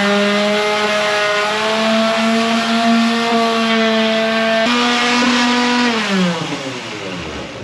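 Old Black & Decker electric sander motor spinning up, running steadily with a high hum and sanding hiss, then winding down about six seconds in as it is switched off.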